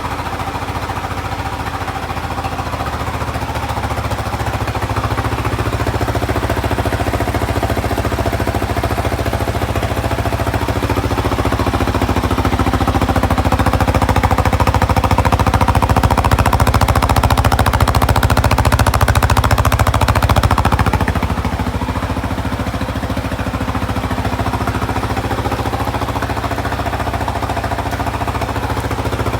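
Yamaha Tricker DG18J's air-cooled single-cylinder four-stroke engine running with a rapid, even beat, growing louder through the middle and dropping back about two-thirds of the way in.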